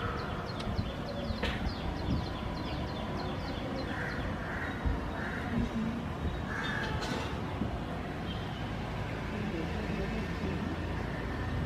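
Birds calling outdoors: a fast run of short high chirps for the first few seconds, then three short harsher calls about four to five seconds in and another near seven seconds, over a steady low background rumble.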